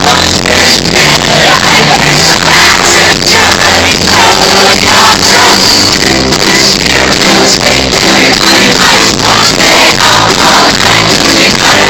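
Loud live band music with singing, recorded on a phone and overloaded into a harsh, distorted sound.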